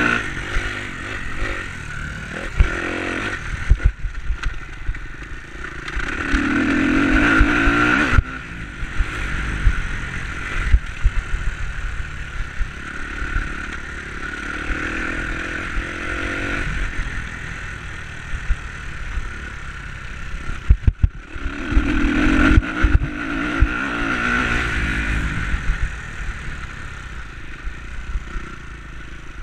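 Enduro dirt-bike engine revving up and falling off in repeated surges, about four times, with frequent short knocks and rattles between.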